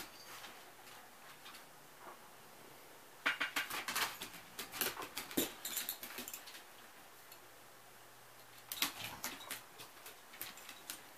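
Toy ball with a noisemaker inside, rattling in quick runs of clicks as a puppy bats and chases it, in two bursts with a quiet stretch between.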